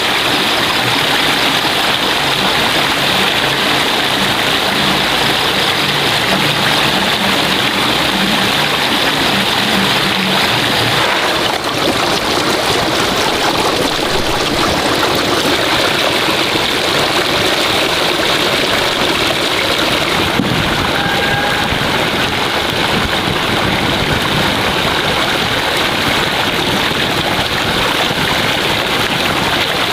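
Steady rush of flowing water, loud and unbroken.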